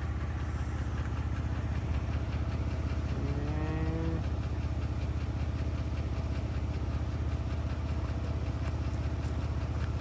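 A car engine idling steadily, heard from inside the car. A little over three seconds in, a short low pitched call with a slight upward bend lasts about a second.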